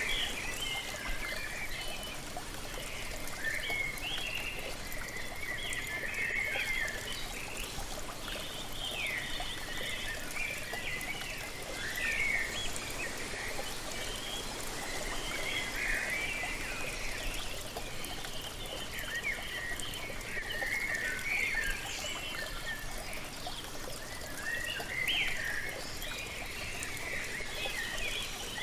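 Waterfall rushing steadily, with small birds chirping and twittering over it in quick clusters of calls throughout.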